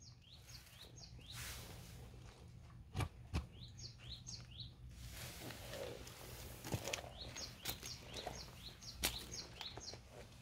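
Small birds chirping in clusters of short, quick high calls, over a low steady hum. A few sharp clicks stand out, the loudest about three seconds in and near nine seconds.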